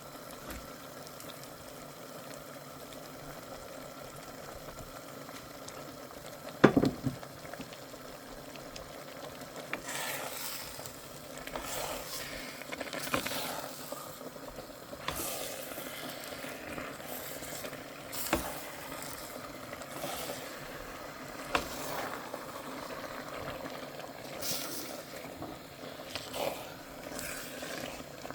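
Soup cooking in a pot on the stove: a steady low simmering hiss, one sharp knock about seven seconds in, then from about ten seconds repeated clatters and scrapes of a utensil stirring against the pot.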